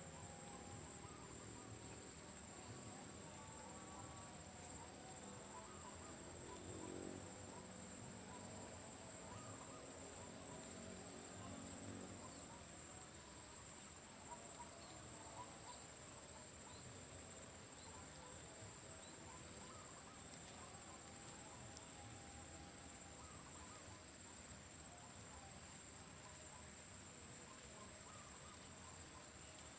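Faint, steady, high-pitched insect chorus over quiet outdoor background noise.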